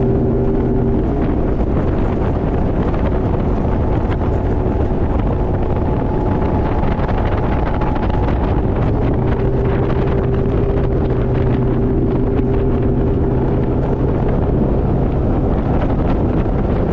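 Motorboat engine running steadily at speed, with heavy wind blowing across the microphone.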